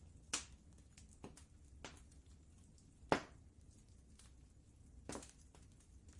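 Wood fire crackling: scattered sharp pops, the loudest about three seconds in, over a low steady rumble.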